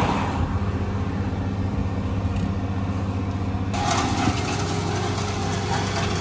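Car engine idling, heard from inside the cabin as a steady low hum. About four seconds in, a rustling hiss joins it.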